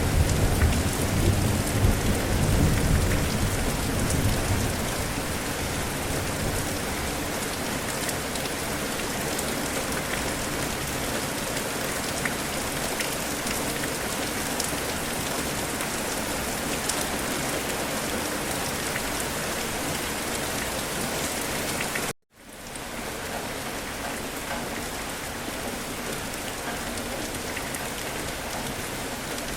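Steady, heavy rain falling, with a low rumble of thunder during the first few seconds. About three-quarters of the way through the sound cuts out for a split second, then the rain resumes slightly quieter.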